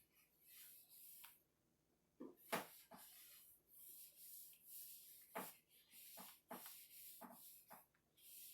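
Damp cloth wiped in short repeated strokes over freshly sanded cedar, a faint swishing rub with a few light knocks in between.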